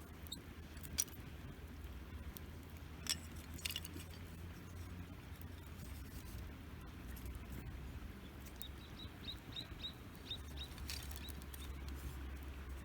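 Wood campfire burning, with a few sharp crackling pops over a low steady rumble. Near the end a bird gives a quick run of about ten short high chirps.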